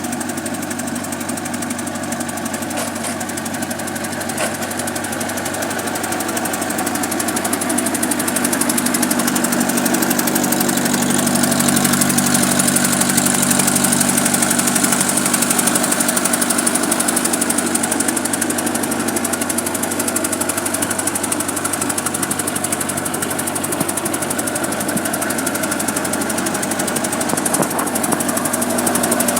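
Case 1530B skid-steer loader's engine running steadily, getting somewhat louder from about six seconds in.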